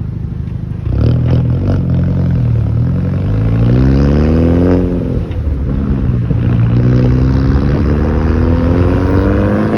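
Hyundai Genesis Coupe 2.0T's turbocharged four-cylinder through a Tomei titanium exhaust, accelerating hard: the revs climb, drop at an upshift about five seconds in, then climb again through the next gear.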